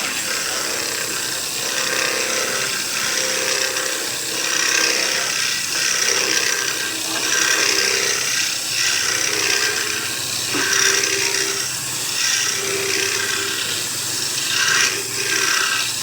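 Power tool cutting or shaping wood: a steady motor tone under a noisy cutting sound that swells and eases every second or two as the wood is fed.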